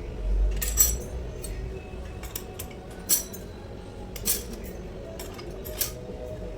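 Metal tools and gearbox parts clinking and knocking during a transmission overhaul. There are several sharp, ringing metallic clinks a second or so apart, with a dull low knock about a second in.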